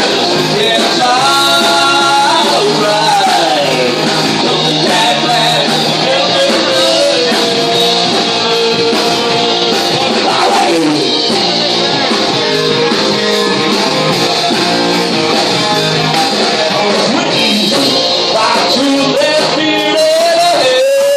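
Live rock band playing, with electric guitar, bass, drums and a lead vocal.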